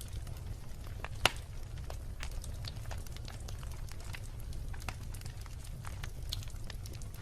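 Wood fire crackling, with scattered irregular pops over a low steady rumble of the flames and one sharp loud pop about a second in.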